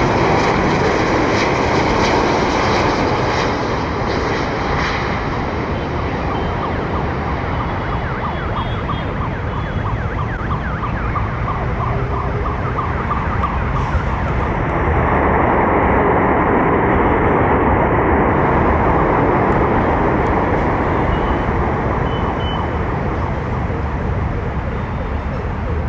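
Jet airliner engines running loudly, a steady rush with a faint whine, easing a little and then swelling again about halfway through.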